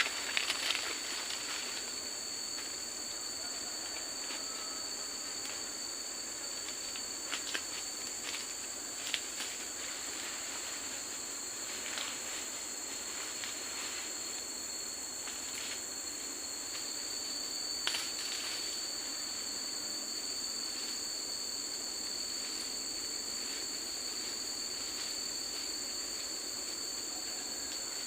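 Steady high-pitched chorus of forest insects, two continuous shrill tones, with a few scattered light clicks and knocks.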